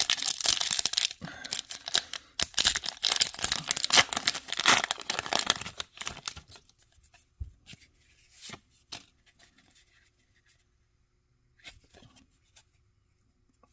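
Foil booster pack of Pokémon trading cards being torn open and crinkled for about six seconds, followed by a few faint clicks and rustles as the cards are handled.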